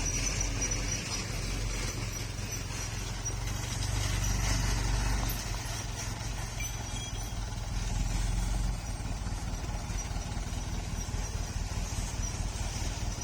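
Vehicle engine running steadily with a low hum, easing off a little about nine seconds in.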